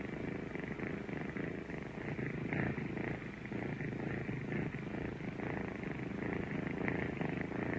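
Kittens purring steadily and continuously, a fast low rumbling pulse.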